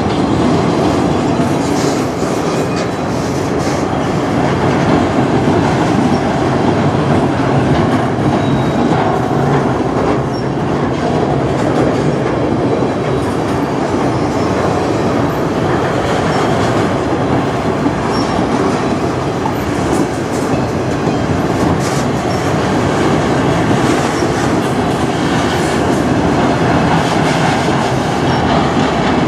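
A freight train of empty flatcars rolling steadily past close by: steel wheels running on the rails with a continuous rumble and rattle, and scattered clacks.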